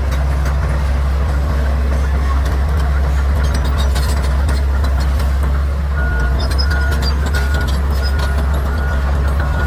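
Bulldozer's diesel engine running with a steady low drone, with scattered cracks and clicks over it. About six seconds in, a reverse alarm starts beeping about twice a second, the sign that the dozer is backing up.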